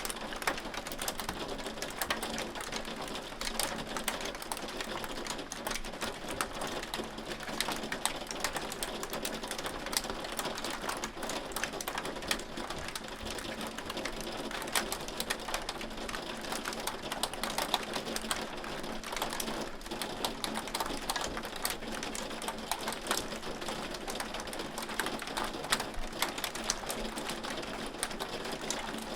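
Hail falling steadily, a dense run of hard, rapid clicks and ticks as the hailstones strike a surface.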